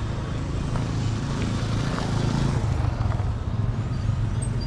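Street traffic: a motor vehicle's engine running with a steady low hum, with road noise that swells as it passes about halfway through.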